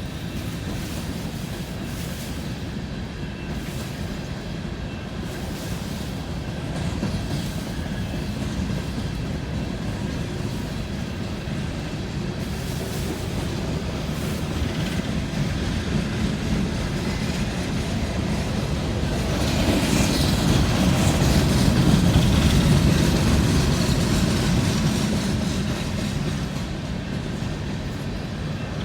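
BNSF coal train's freight cars rolling past, a steady rumble of steel wheels on rail with clickety-clack. It swells louder and brighter for several seconds about two-thirds of the way through, then eases back.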